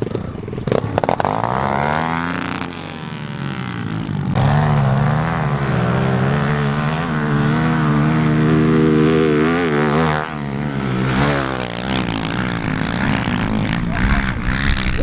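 Pit bike's small four-stroke engine revving hard on a sand hill climb, its pitch wavering up and down as the throttle is worked, with a brief drop just after ten seconds in.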